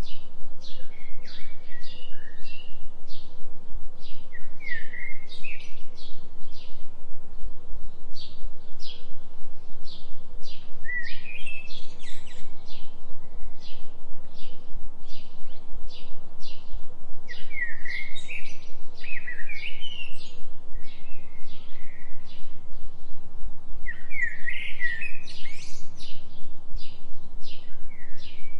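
Forest birds singing: a steady run of short high chirps, with phrases of quick gliding notes breaking in every few seconds. A low steady tone runs underneath, the carrier of the 3 Hz delta binaural track.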